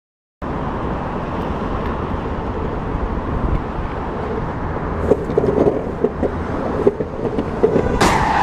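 Car driving, with steady road and engine noise and a few short knocks around the middle. Near the end a loud high squeal starts, the beginning of tyres skidding.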